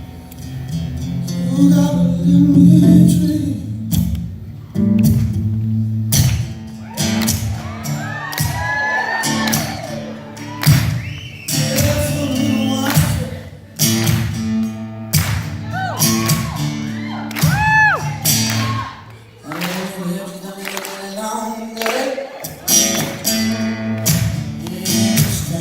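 Live acoustic guitar played hard with percussive strummed strokes, under wordless melismatic singing that slides up and down in pitch.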